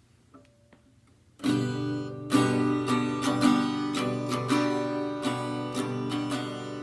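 Acoustic guitar starting about a second and a half in, strumming and picking chords as a song's intro; a few faint clicks before it begins.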